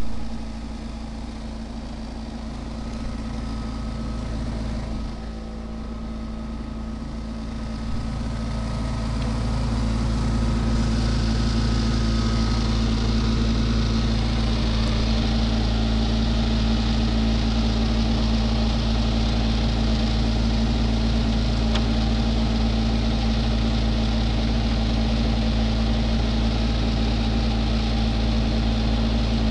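Vehicle engine idling steadily. It grows louder and fuller from about eight to ten seconds in, then holds steady.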